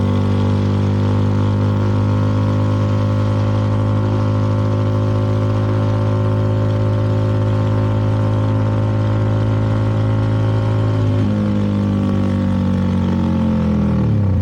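CFMoto 300NK single-cylinder motorcycle engine running steadily at cruise. Near the end the engine note falls sharply in pitch as the revs drop.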